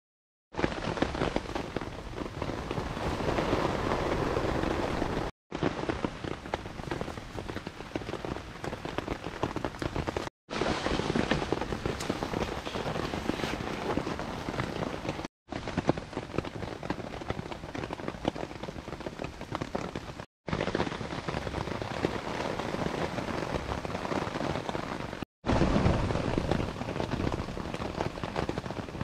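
Steady rain pattering on a tarp overhead, a dense patter of drops with no let-up. The sound drops out for a moment about every five seconds.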